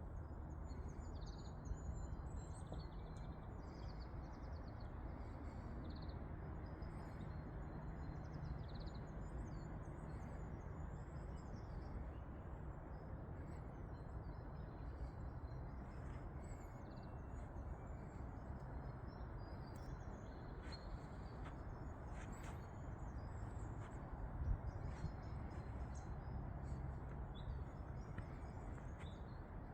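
Small birds chirping and calling on and off, high and brief, over a steady low rushing ambience of woodland and distant rumble. One short louder click about 24 seconds in.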